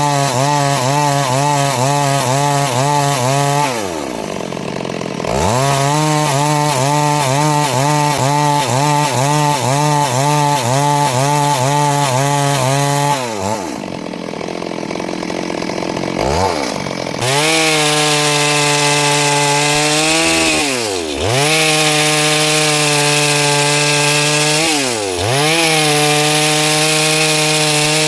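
Two-stroke chainsaw running at full throttle, cutting through wood, its engine note wavering rhythmically under load. Twice it drops back towards idle and revs up again, and near the end it dips briefly twice more.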